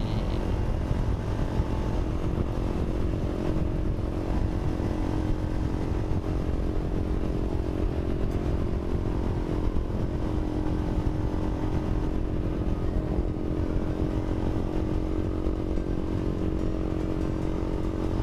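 Yamaha LC135 motorcycle's single-cylinder four-stroke engine running at steady cruising revs, heard with a heavy low rumble of wind on the microphone.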